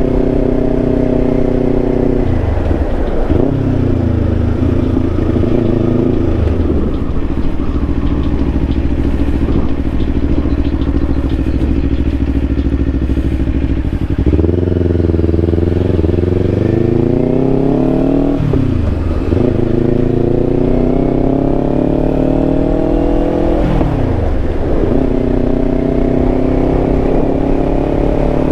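Kawasaki Ninja 500's parallel-twin engine under way. Its pitch falls early and holds steady for a while, then climbs in the second half, dropping sharply twice as it shifts up through the gears while accelerating.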